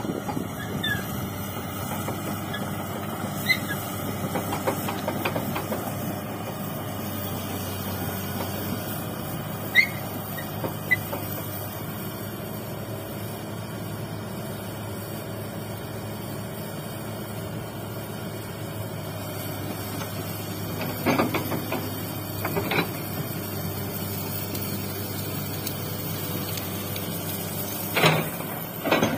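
Hydraulic excavator's diesel engine running steadily, with short high squeaks now and then from the working machine. A few sharp knocks come in the last third.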